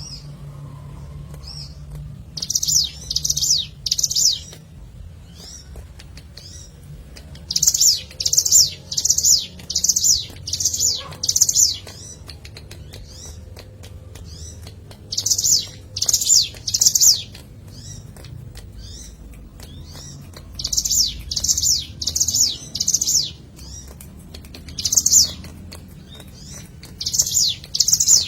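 Ciblek gunung, a mountain prinia, singing: runs of loud, high, repeated chirping notes, each run lasting a second or two, coming again and again after short pauses. A faint low hum lies underneath.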